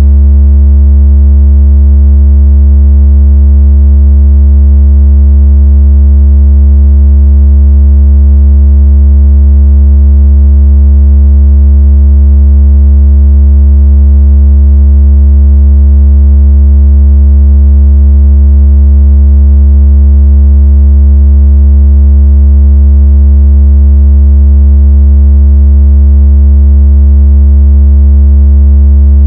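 A steady, very deep synthesized bass tone with faint overtones, held without change. It is a water-ejection vibration tone, played to shake water out of a phone speaker.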